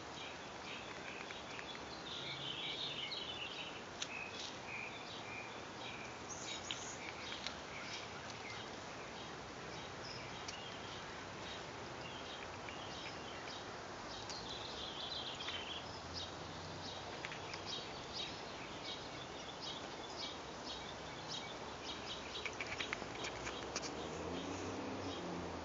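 Outdoor garden ambience: a steady background hiss with small birds chirping on and off in short clusters of high notes. There are a few light clicks near the end.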